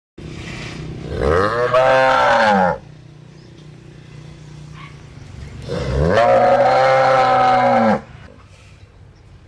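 Cow mooing twice: two long moos a few seconds apart, each rising and then falling in pitch.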